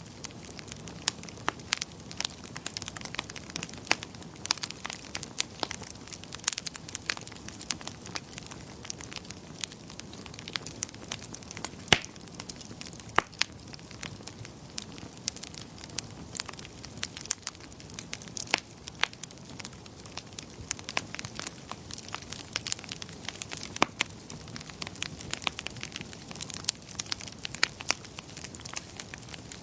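Wood fire crackling and popping, irregular sharp snaps over a steady low hiss, with a few louder pops.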